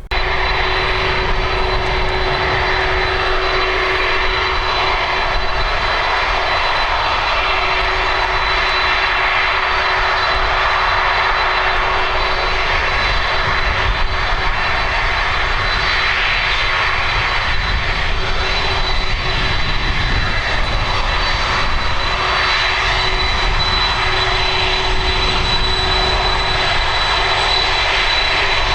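Boeing 747-400 freighter's four jet engines running loudly and steadily, a high steady whine over a broad rumble, cutting in abruptly at the start.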